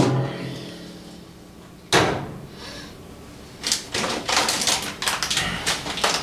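Two hollow knocks, about two seconds apart, the first with a short ringing tail, then from just past halfway a dense, rapid rattle of birdseed being poured into a bird feeder.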